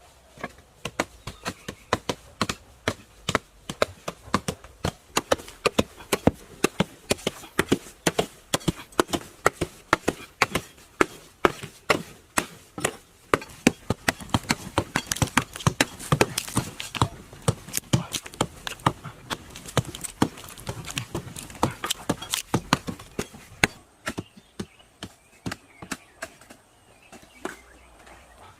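A long, fast series of sharp strikes, about two to three a second, which stops about 24 seconds in.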